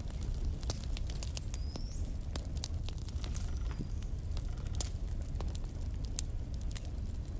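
Wood logs burning in a fireplace: irregular sharp crackles and pops over a steady low rumble, with a faint short high whistle about two seconds in.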